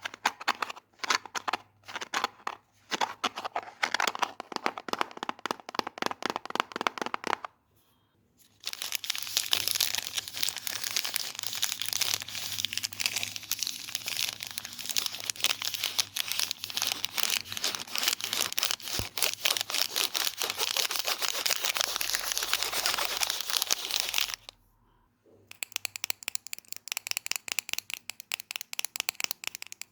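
Fast ASMR triggers close to the microphone: rapid tapping for several seconds, a brief pause, then a long stretch of dense, crackly scratching and crinkling, and after another short pause rapid tapping again.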